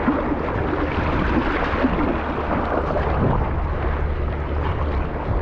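Wind buffeting the microphone, with choppy sea water sloshing around a kayak: a steady, loud rush with a low rumble.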